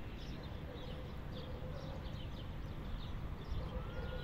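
Small birds chirping, short high downward-slurred notes repeating a few times a second, over a steady low rumble.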